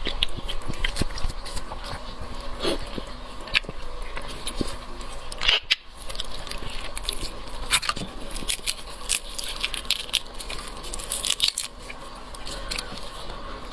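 Close-miked chewing and biting of shrimp, with many irregular wet clicks and crackles.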